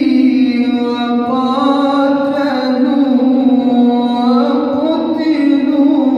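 A male voice chanting Quran recitation in the melodic tajweed style, holding one long drawn-out vowel at the end of the word "sabīlī". The note wavers up and down in pitch without a break.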